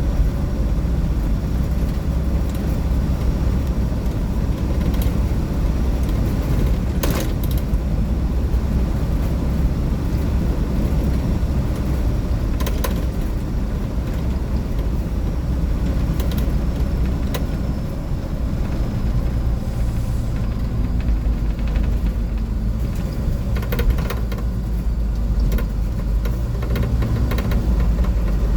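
2004 Blue Bird 3800 school bus cruising at highway speed, heard from inside: its International DT466E turbodiesel and the road noise make a steady low drone. Short sharp rattles and clicks from the body and fittings come through every few seconds.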